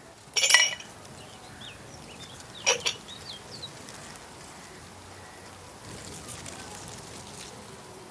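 Dishes clinking: a short rattle of clinks, then another about two seconds later.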